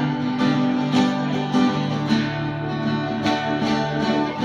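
Acoustic guitars strumming chords between sung lines of a folk song.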